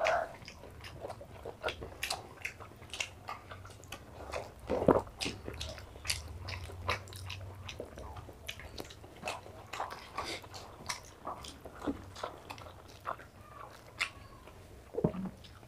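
Close-up eating sounds of rice and mutton curry eaten by hand: irregular wet chewing and smacking mouth clicks, with fingers mixing rice and curry on the plates.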